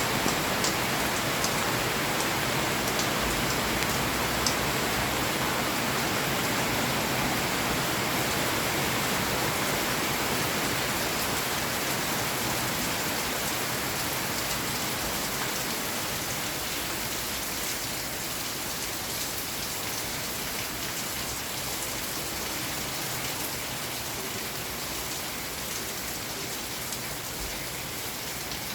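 Steady rain falling, with a few sharp single drop hits in the first seconds, easing off slightly toward the end.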